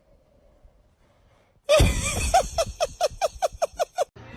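A voice bursting out loudly about two seconds in and running into a rapid string of about ten short pitched pulses, like a fit of laughter, which stops abruptly shortly before the end.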